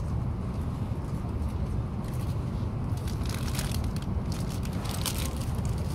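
Cabin noise of an E5 series Shinkansen running: a steady low rumble, with brief crackling rustles about three seconds in and again near the end.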